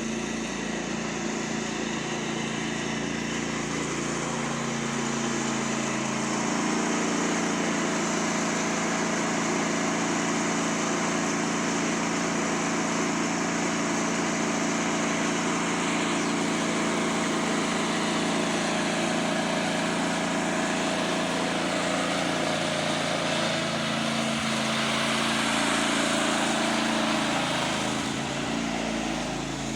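Lawn mower's small engine running steadily, its pitch stepping up slightly a few seconds in and sagging near the end.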